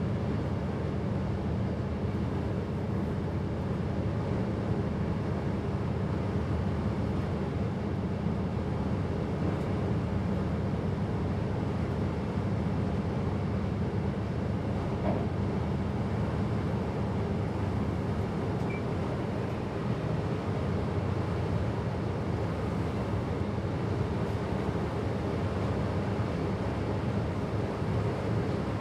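Steady running noise of a passenger train heard in the driver's cab: an even low rumble that holds at one level throughout.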